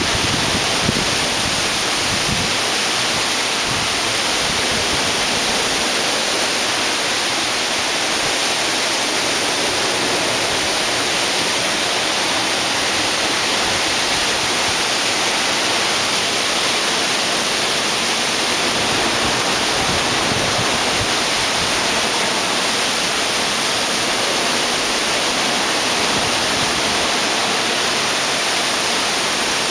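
Steady rushing hiss of storm wind and rain in a hurricane, with a few low gusts buffeting the microphone in the first couple of seconds.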